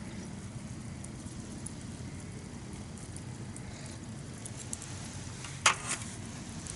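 Campfire burning with a steady low rumble and scattered small crackles, and one loud pop, followed closely by a smaller one, about five and a half seconds in.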